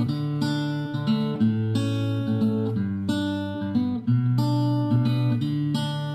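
Acoustic guitar music: chords played with clear, steady note changes about every half second to second.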